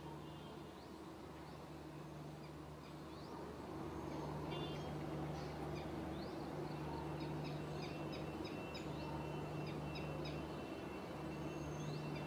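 Small bird chirping in a quick run of short, sharp notes, faint and few at first, then coming several to the second from about four seconds in.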